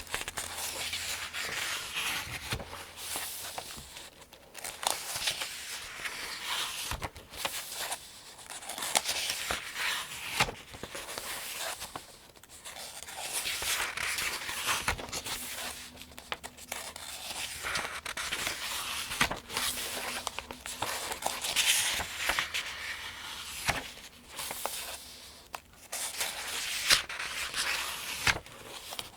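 Paper pages of a Farmers' Almanac being turned one after another, each turn a crisp rustle and flutter of thin paper, in a steady, rhythmic run.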